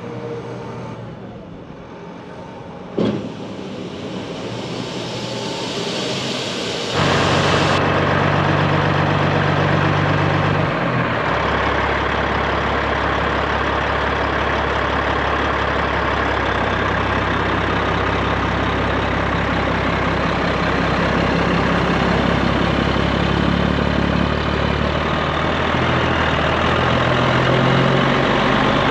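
Heavy engine running steadily, much louder from about seven seconds in, with its pitch dropping slightly a few seconds later; a single sharp click about three seconds in.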